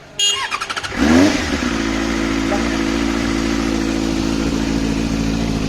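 Benelli 600i inline-four motorcycle engine starting: a brief burst of starter cranking, then it catches about a second in with a short flare in revs and settles into a steady idle.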